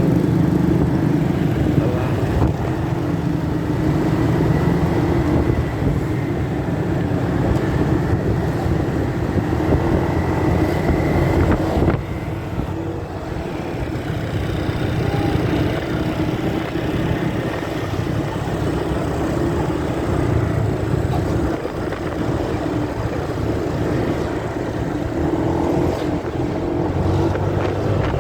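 Motorcycle riding along, its engine running under steady wind and road rumble, heard muffled through a phone carried in a pocket. The level drops slightly about twelve seconds in.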